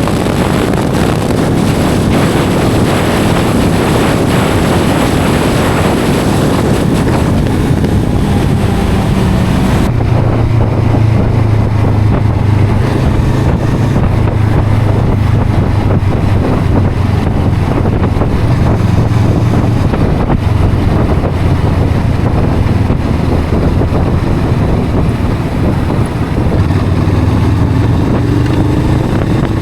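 Honda CL500 parallel-twin engine running on the move, with wind buffeting the microphone. About ten seconds in, the wind noise drops away suddenly and the engine's steady low drone comes to the fore. Near the end its pitch rises as it speeds up.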